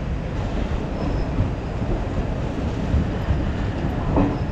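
Steady rumble of a moving passenger train heard from inside an LHB chair-car coach, the wheels running on the track. Faint voices come in near the end.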